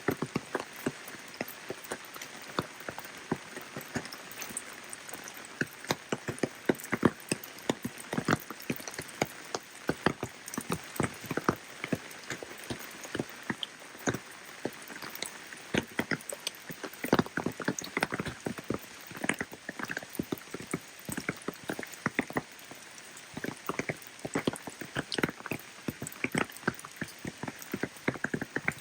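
Rain falling steadily, with many close, irregular drops tapping sharply on a surface.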